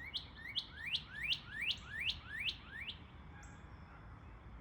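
A songbird singing a fast run of about ten rising whistled notes, each sweeping sharply upward, roughly three a second, that stops about three seconds in.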